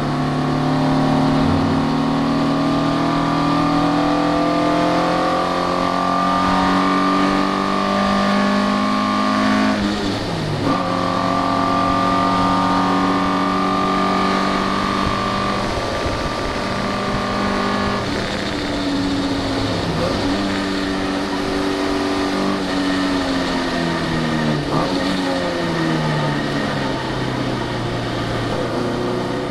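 Alfa Romeo twin-cam car engine running hard on a race track. Its pitch holds high and steady, dipping sharply and briefly at gear changes, with a run of quick downshifts near the end.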